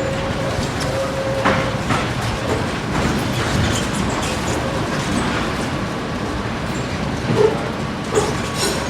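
Tram running along its rails: a steady rumble, with a few clicks and knocks from the wheels, one about a second and a half in and several near the end. A faint steady whine fades out early on.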